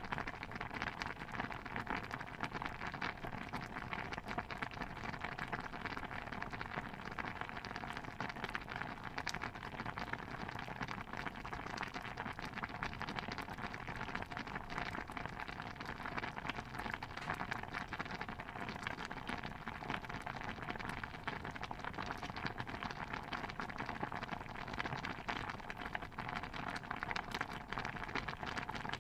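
A dense, steady patter of tiny pops and crackles from a kitchen ambience soundscape, even and unbroken, with no single louder event standing out.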